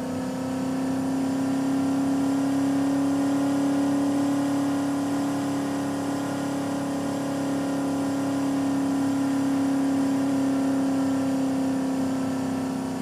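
Small car's engine running at steady revs, a droning hum that rises slightly about a second in, then holds.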